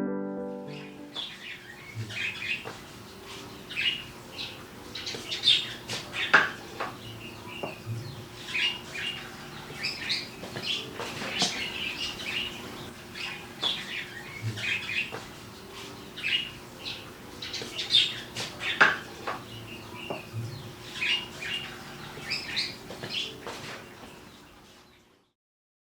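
Small birds chirping: many quick, sharp chirps overlapping at irregular intervals.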